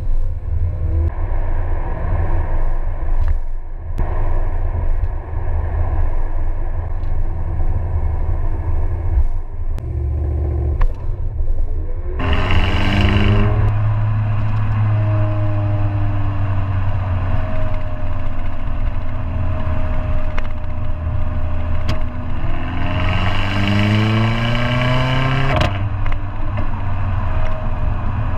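Mercedes-AMG A45's turbocharged 2.0-litre four-cylinder engine and AMG Performance Exhaust while driving: a low steady rumble at first, then the engine note climbing sharply under acceleration about twelve seconds in, holding, and climbing again a little after twenty seconds.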